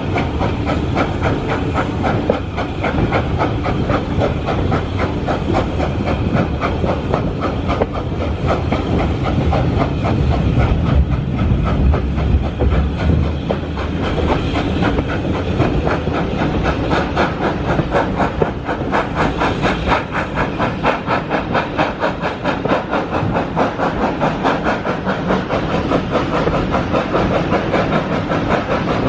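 Heritage passenger train on the move: a steady loud rush of running noise with a fast, even beat.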